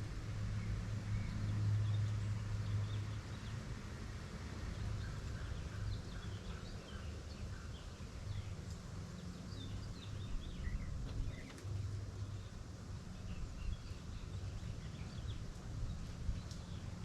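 Birds chirping outdoors: many short, high calls scattered through the middle and later part, over a steady low rumble that is strongest near the start.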